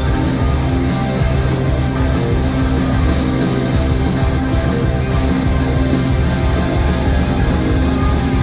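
Rock band playing live: loud guitar-driven music with held low notes and a steady beat, no singing.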